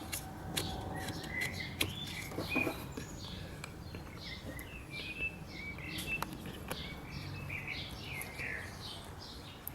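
Small birds chirping repeatedly in short calls, with a few sharp clicks from hands handling tools or parts now and then.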